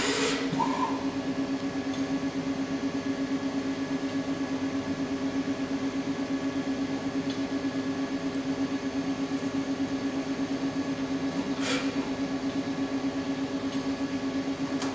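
Ajax Superturn CNC lathe running a simple outside-turning cycle: a steady hum with a rapid, even pulsing, with a sharp click at the start and another near the end.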